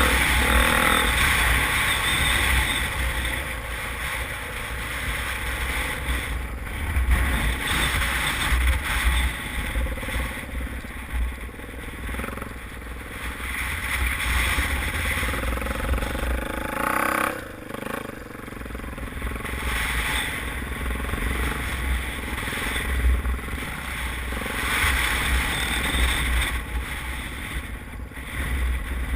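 Motocross motorcycle engines revving, the sound swelling and fading repeatedly.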